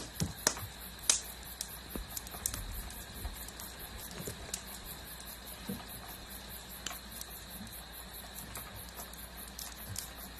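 Scattered pops and crackles of a campfire, most of them in the first few seconds, over a steady high chirring of crickets.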